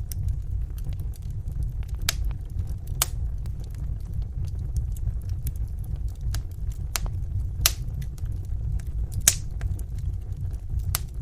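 Wood fire burning in a fireplace: a steady low rumble with many small crackles and a handful of sharper pops a second or more apart.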